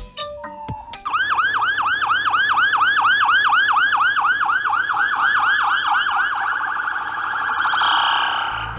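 Electronic police-style yelp siren, wailing up and down quickly about four times a second, starting about a second in after a few short beeps and blurring toward the end.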